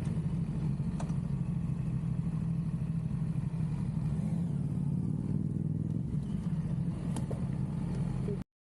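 Motorcycle engine running at a steady cruise with road and wind noise. The sound cuts off suddenly near the end.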